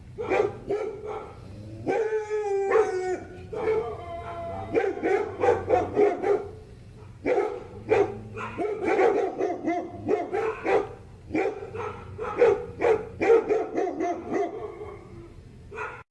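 Dog barking in quick, repeated runs of short barks, with one long whine falling in pitch about two seconds in.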